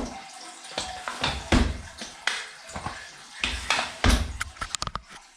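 Irregular knocks and bumps, some with a low thud, then a quick run of small sharp clicks near the end.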